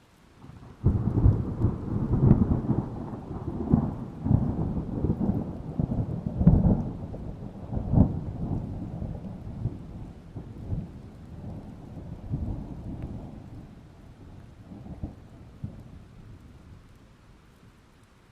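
A thunderclap breaking about a second in, followed by a long crackling rumble of thunder that fades away gradually over the following fifteen seconds, with steady rain underneath.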